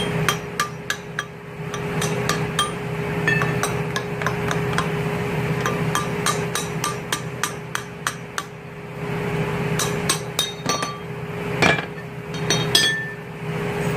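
Wrench and loose bolts clinking and tapping on the metal parts of a 13B rotary engine being unbolted: a long irregular string of sharp metallic clicks, some ringing briefly, over a steady hum.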